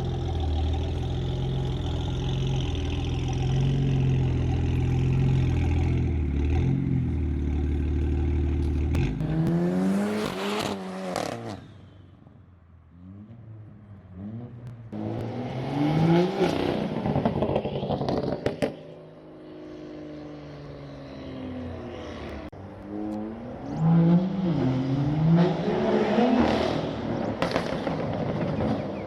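Performance car engines running steadily, then several cars accelerating hard past in turn, each revving up in rising sweeps through the gears.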